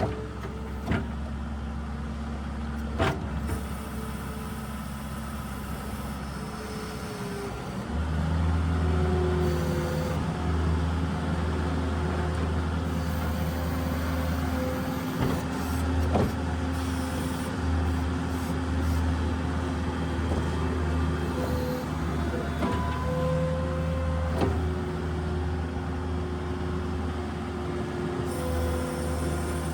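New Holland skid steer's engine running while it plows snow. About eight seconds in it steps up to a louder, higher-pitched run, with a whine and a few sharp knocks over it.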